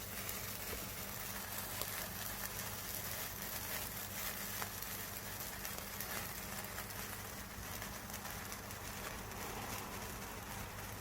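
Lit indoor sparklers burning with a steady fizzing crackle.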